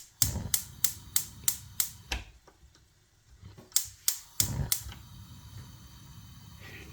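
Gas hob's electric igniter clicking about three times a second, then a short pause and a few more clicks. After the last clicks the burner catches and a steady soft rush of the flame follows.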